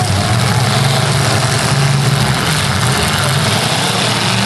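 Engines of full-size demolition derby cars running at a steady low rumble, with no crash heard.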